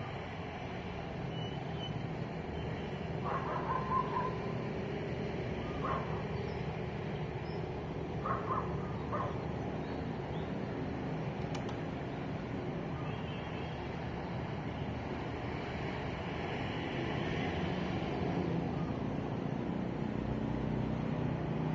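Steady rumble of road traffic with engines running, broken by a few short calls about three to nine seconds in; the traffic grows louder over the last few seconds.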